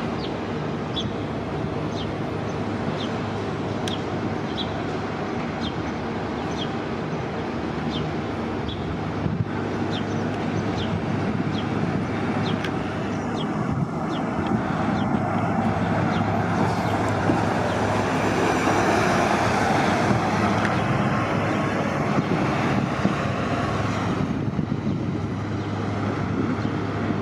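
Transit buses running at a busy bus terminal: a steady engine hum with a regular light ticking about one and a half times a second for the first nine seconds or so. Then a bus grows louder from about 16 to 22 seconds as it moves off or passes, and fades back to the idling hum.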